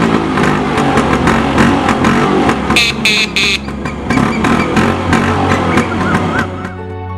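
Two-stroke motorcycle engine revving hard, rising in pitch early on, with many sharp cracks through the run, then cutting off near the end over steady background music.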